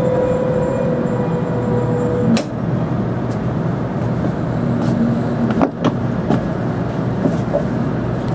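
Ride noise of a 700-series Shinkansen heard from inside the car as it slows into the station: a steady rumble with a whine that stops about two seconds in, and a few sharp clacks from the wheels.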